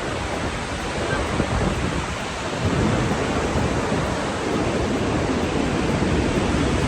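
Gullfoss waterfall's falling water making a steady rush, with wind buffeting the microphone.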